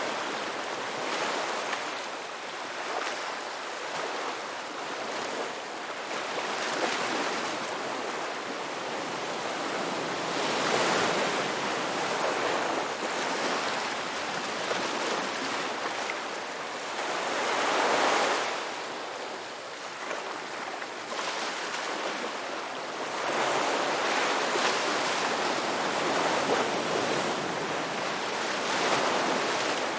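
Ocean waves breaking and washing on a shore: a continuous rush of surf that swells and falls every several seconds, with the strongest surges about 11 and 18 seconds in and near the end.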